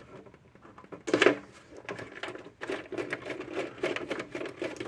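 Hand tools on metal: a deep socket working a nut off a transformer bolt, with a sharp clunk about a second in and then a fast run of small metallic clicks and rattles.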